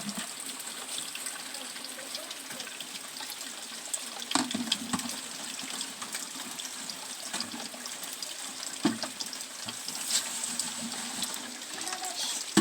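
Rain falling with water running and splashing steadily, broken by scattered drips and a few sharper knocks.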